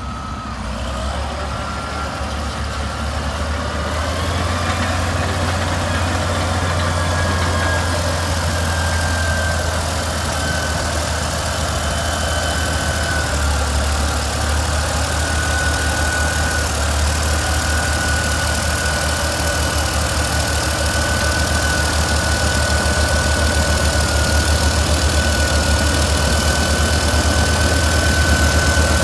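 Old Caterpillar D8 crawler bulldozer's diesel engine running steadily as the machine works, growing louder about four seconds in, with a thin steady high whine above the engine.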